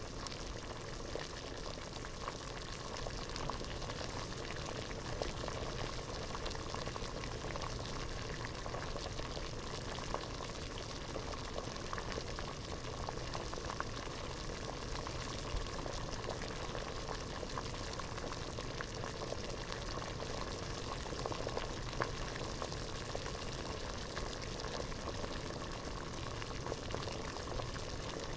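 Water boiling in a pot: a steady rolling boil with constant bubbling and small pops.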